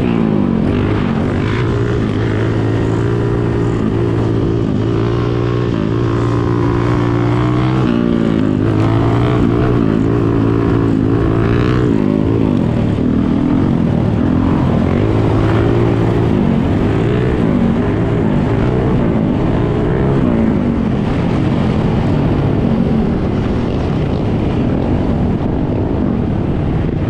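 Dirt bike and ATV engines running. One engine holds a steady note, then is revved up and down several times in the middle, before the sound settles into a rougher mix of engines and wind.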